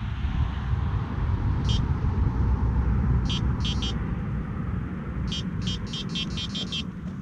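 Sonik SKS2 electronic bite alarm beeping, signalling a bite. It gives a single beep, then a couple more, then a quick run of about eight beeps. A steady low rumble runs underneath.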